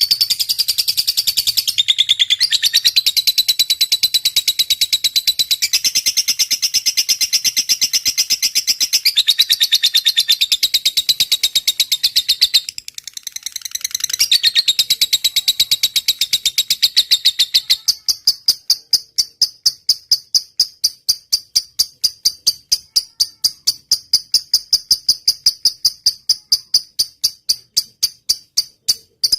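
Lovebird singing a long, rapid, high-pitched chattering song. About two-thirds of the way through it changes to a steady run of sharp high ticks, roughly four or five a second: the 'ngetik' (typing) style.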